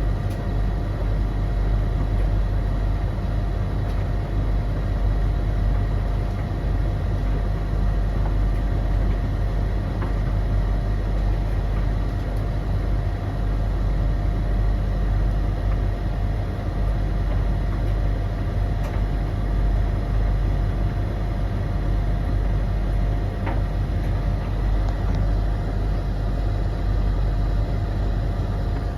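Three tumble dryers, a Blomberg LTK310030W, a Russell Hobbs RH3VTD800 and a Hoover HLEC8TRGR-80, running together mid-cycle. They make a steady, loud hum of motors and drums with a constant whine above it and the odd faint click.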